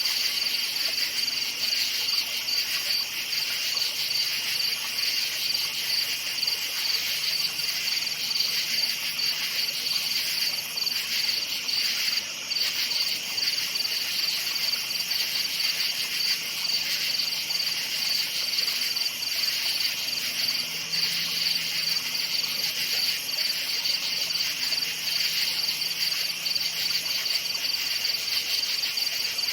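A dense chorus of night crickets chirping without a break, a high continuous trill that pulses rapidly.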